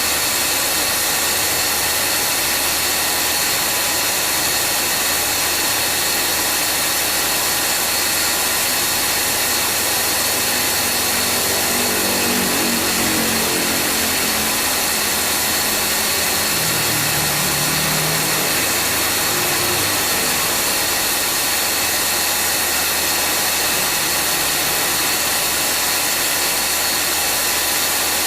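2013 Subaru Forester's A/C compressor running with a loud, steady whine and hiss that does not cycle off. This is the abnormal noise of a heavily worn compressor, one that cools very poorly. A lower pitched tone comes and goes in the middle.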